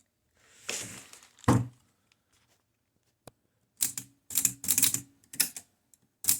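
Keys of a Torpedo manual typewriter being struck one after another, about two or three a second from about four seconds in, to test the re-sprung ribbon vibrator. Before that there is a handling rustle and a single thump.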